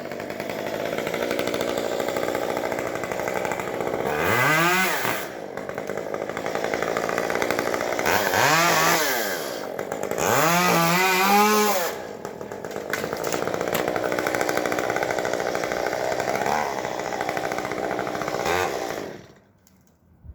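Gasoline chainsaw running, its engine revved up and back down about three times between steadier stretches, then cutting out shortly before the end.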